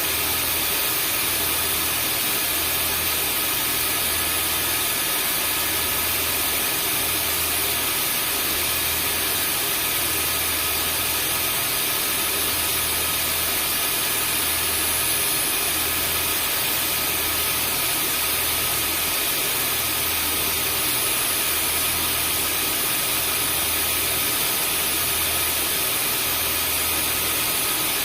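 Vacuum cleaner running steadily: constant rushing noise with a few steady high whine tones, and a low hum underneath that swells and fades about every second and a half.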